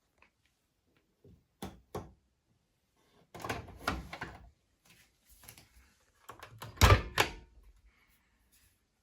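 A series of knocks and thuds. Two short knocks come about two seconds in, then a longer rattling cluster around four seconds, and the loudest thud comes about seven seconds in.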